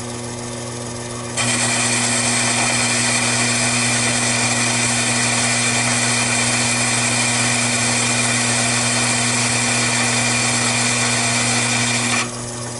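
Taig lathe running with a steady motor hum; about a second and a half in, the louder, even noise of the tool bit cutting sets in as the outer diameter of the chuck adapter is turned down, and it stops shortly before the end while the motor hums on.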